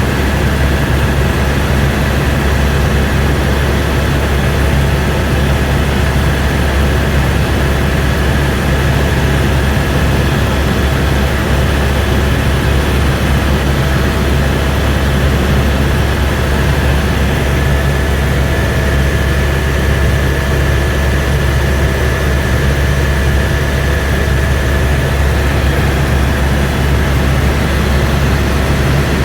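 Eurocopter AS350 B2 helicopter in flight, heard from inside the cabin: a loud, steady drone of main rotor and turboshaft engine, with a constant whine over it.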